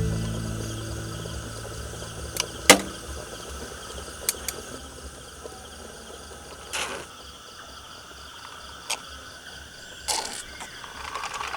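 Insects chirping in a steady, even pulse, with a few sharp clicks and knocks scattered through, the loudest a little under three seconds in.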